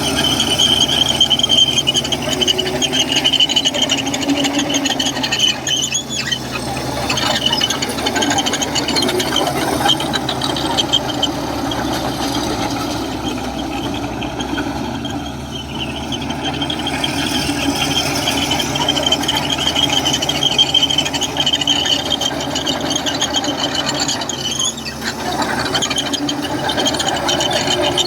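Komatsu crawler bulldozer at work: diesel engine running steadily under a continuous high-pitched squeal, the sound of steel tracks grinding on their rollers and idlers.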